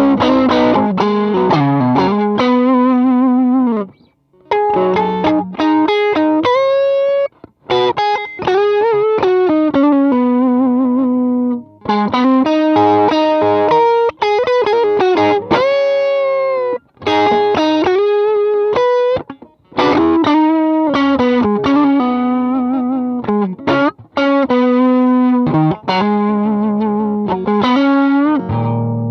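Electric guitar played through a 68 Pedals Inca Kola overdrive, a Zendrive clone, giving a mildly distorted lead tone. Short melodic phrases of held and bent notes with vibrato, each separated by a brief pause.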